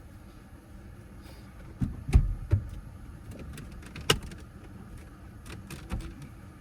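Handling noises from work inside a car: a few heavy thumps about two seconds in, a sharp click about four seconds in, and scattered lighter clicks and a thump near the end.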